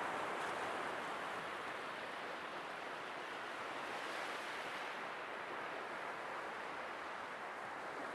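Sea waves washing on a shore in a steady hiss, easing a little about halfway through.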